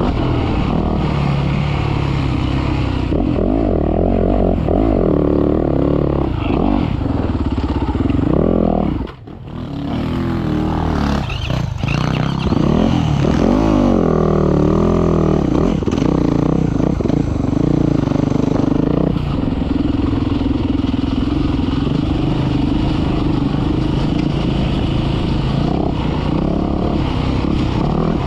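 Dirt bike engine revving up and down as it is ridden hard around a sand motocross track. About nine seconds in, the sound drops away sharply for a moment, then picks up again.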